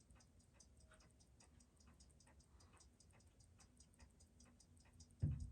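Seiko 6139 automatic chronograph movement ticking on a timegrapher, a faint, steady, rapid tick. A brief louder low thump comes just before the end.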